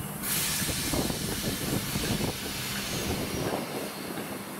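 Electric multiple unit moving slowly past the platform, its wheels knocking irregularly over the rail joints. A burst of air hiss starts just after the beginning and fades away over a couple of seconds.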